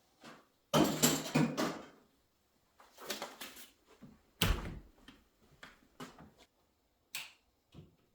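Irregular clatter and knocks, with a loud rustling burst lasting about a second near the start and a heavy thump about four and a half seconds in.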